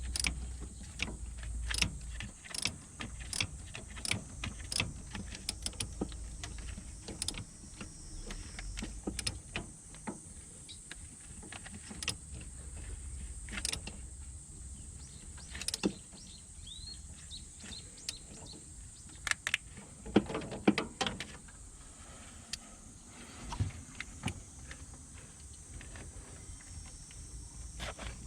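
Irregular light clicks and knocks of mechanical work, over a steady faint high hiss.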